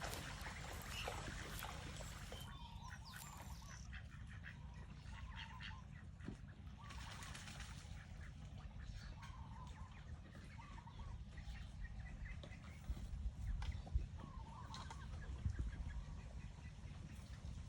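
Poultry calling with short low clucks every second or two, over a steady low rumble.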